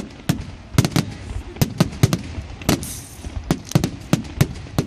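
Fireworks display: aerial shells bursting in a rapid, irregular string of sharp bangs, about three or four a second, each echoing briefly. A hissing crackle comes in about three seconds in.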